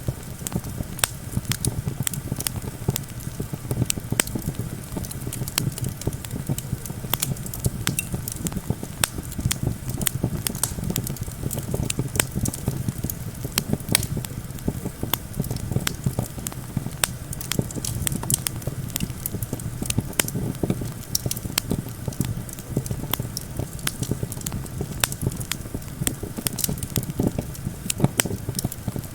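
Wood campfire crackling, with frequent irregular sharp pops and a steady hiss. Under it is a steady low rumble of wind.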